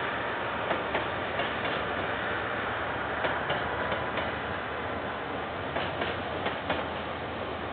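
Train rolling past on the line, a steady rumble of wagons with repeated sharp clicks of the wheels going over the rail joints.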